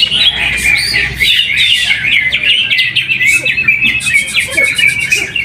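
Cucak hijau (green leafbird) singing a fast, unbroken run of high chirps and trills in full contest song.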